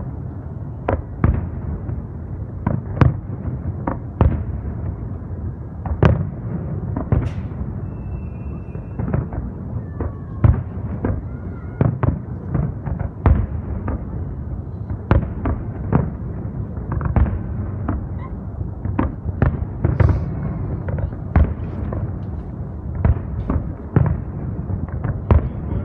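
Fireworks display: a continuous run of aerial shell bursts, irregular sharp bangs about one or two a second over a steady low rumble.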